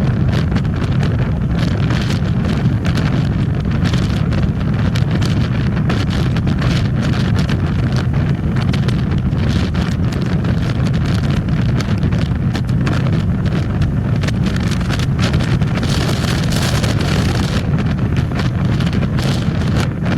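Wind rushing and buffeting over the microphone on a moving motorcycle, a steady low rumble with the bike's running noise beneath it.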